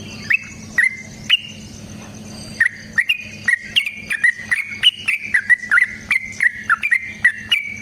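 Sooty-headed bulbul (trucukan) song: a few separate short chirps, then, about a third of the way in, a long rapid run of notes several a second, with a faint steady low hum beneath.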